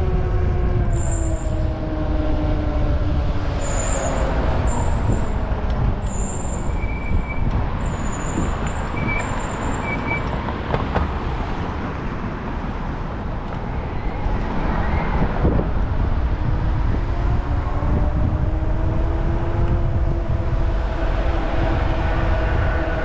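Urban traffic noise with a heavy low rumble, heard from a moving bike, and a droning motor tone that slowly falls in pitch over the first few seconds and rises again near the end.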